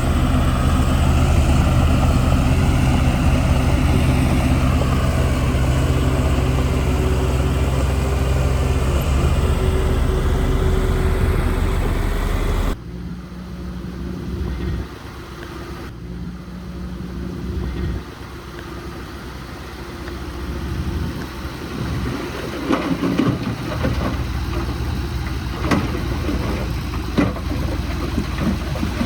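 Heavy earthmoving machinery's diesel engine running loud and steady. About 13 seconds in the sound cuts abruptly to a quieter engine with scattered knocks and clanks.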